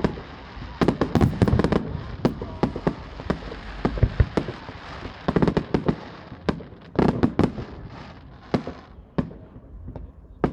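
Fireworks display: many sharp shell bursts and bangs in quick clusters over continuous crackling, denser around a second in, again about five seconds in and about seven seconds in.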